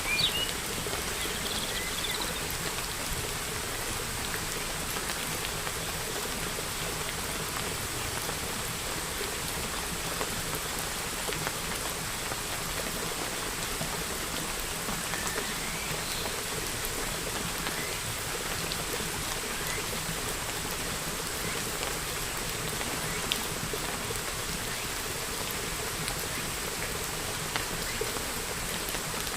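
Steady rain falling, with a few short bird chirps in the first couple of seconds.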